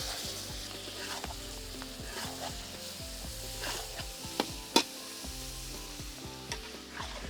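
Onion-and-spice masala sizzling in oil in a pan as it is stirred, with a spatula scraping and knocking against the pan, two sharp knocks about four and a half seconds in.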